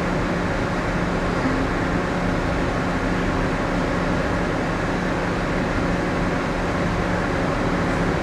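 Steady mechanical hum of a passenger ship's onboard machinery and ventilation. It is a low drone with a few faint steady tones and keeps an even level throughout.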